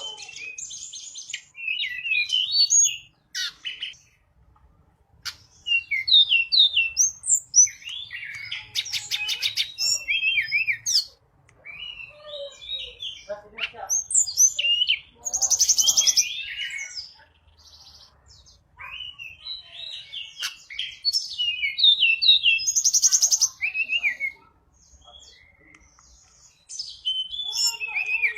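A tledekan gunung songbird singing energetically: rapid runs of high, varied chirps, trills and quick up-and-down whistles, in bursts of several seconds separated by short pauses.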